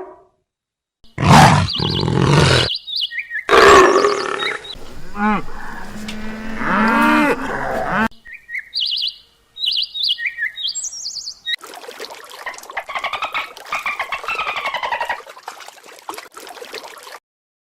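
A sequence of different animal calls, one after another with short gaps, including a run of short high bird chirps in the middle.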